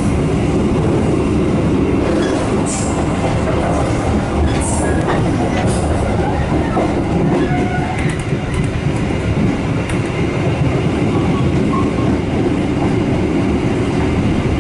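KA Dhoho passenger train running along the track, heard from inside the carriage: steady wheel and rail noise, with a few short high-pitched hisses in the first six seconds.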